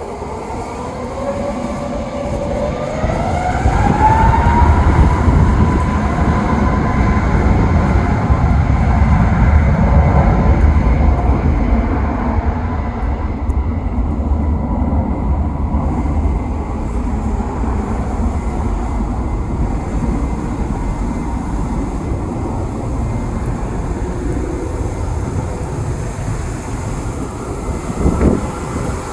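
Jet airliner taking off: its engines spool up to takeoff power, a whine rising in pitch over the first few seconds and then holding steady, over a loud rumble that builds and then slowly eases. A brief knock sounds near the end.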